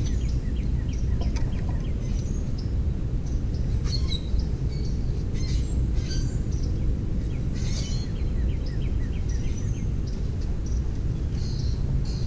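Several songbirds chirping and calling, including runs of quick repeated chirps, over a steady low rumble.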